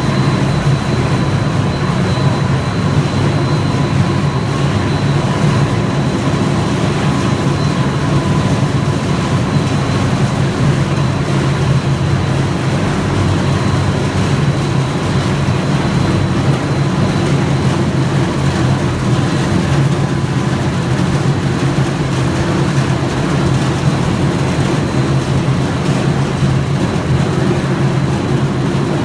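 Machinery of a 3D pellet snack production line running steadily: a continuous low hum with a faint high whine over it.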